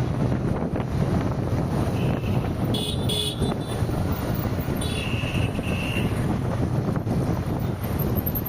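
Steady road and wind noise of driving in traffic, with vehicle horns honking: short toots about two and three seconds in, and a longer single-note honk lasting about a second near the middle.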